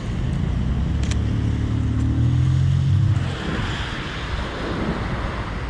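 City street traffic: a vehicle's low engine rumble that stops about three and a half seconds in, then a steady hiss. There is a single click about a second in.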